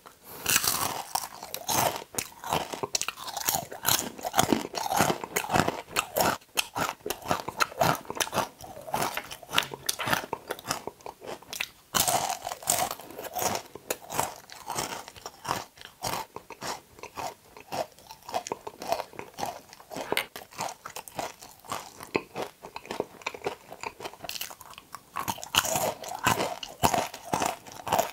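Close-miked crunching and chewing of okra pods, starting with a sudden bite and with fresh loud bites about 12 and 25 seconds in.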